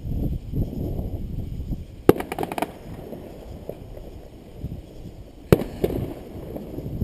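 Aerial fireworks going off: low rolling booms throughout, a sharp bang about two seconds in followed by a quick run of crackles, and another sharp bang about five and a half seconds in with a few smaller pops after it.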